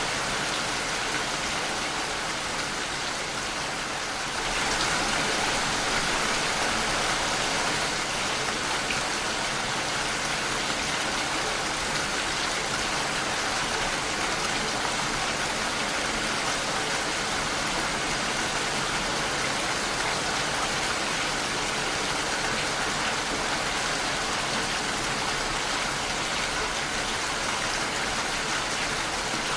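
Steady rain pattering against a window pane, an even hiss with no separate drops standing out; it grows slightly louder about four seconds in.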